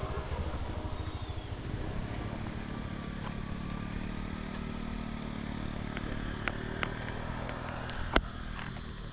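Motorbike engine running at a steady pitch, with a few sharp clicks or knocks near the end.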